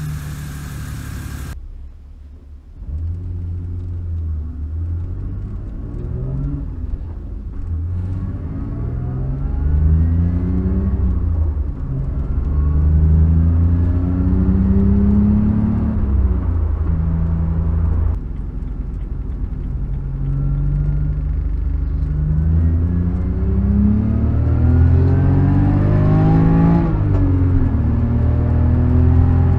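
BMW 325i's N52B25 straight-six engine accelerating hard, its pitch climbing in long sweeps and dropping back at each gear change. It follows a brief hiss that cuts off about a second and a half in.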